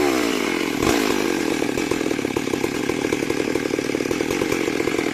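Two-stroke chainsaw running at high revs and cutting wood: the engine note falls and then holds steady under load from about a second in.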